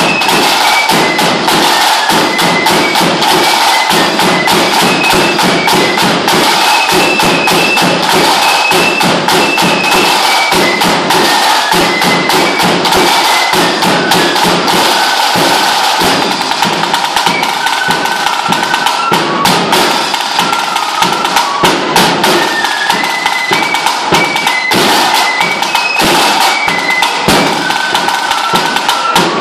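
Lambeg drum beaten with canes in a fast, dense, unbroken run of strokes, with a fife playing a tune of short high notes over it.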